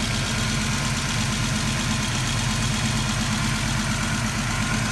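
Ford 5.0-litre (302) small-block V8 of a 1989 Mustang LX idling steadily.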